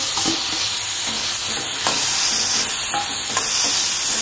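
Chopped tomatoes and onions sizzling in hot oil in a metal pan as they are sautéed, with a metal spatula stirring and scraping against the pan and a few clicks.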